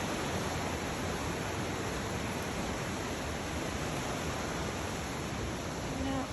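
Steady rush of creek water spilling over the waterfall by the gristmill.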